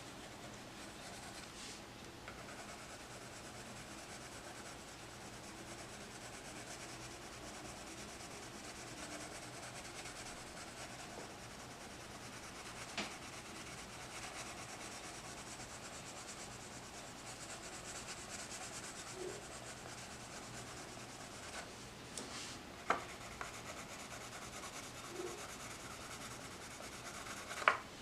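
Coloured pencil shading on paper: a steady soft scratching rub, with a few light clicks near the middle and end, the loudest just before the end.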